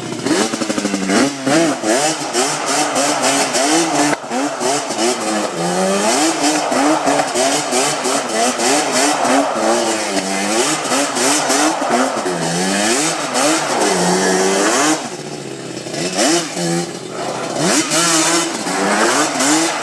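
Yamaha Banshee's two-stroke twin engine revved hard over and over, its pitch climbing and dropping about once a second, easing off briefly near the three-quarter mark.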